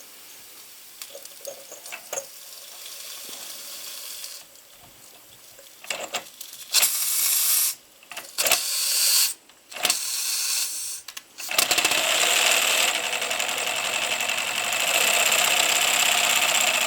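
MSS live-steam side tank locomotive: steam hissing in short bursts, then about 11 seconds in the engine gets going and runs in reverse with rapid, even exhaust beats and steady hiss. The engine is a little stiff because its pistons have not been run in yet.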